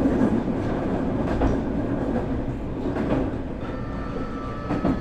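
Onboard running sound of a Nankai 8300 series IGBT electric train's motor car: a steady rumble of wheels on rail with a few clicks over rail joints. Near the end, several thin, steady high-pitched tones come in from the Hitachi two-level IGBT VVVF inverter and the Toyo Denki TDK-6315-A fully enclosed traction motors.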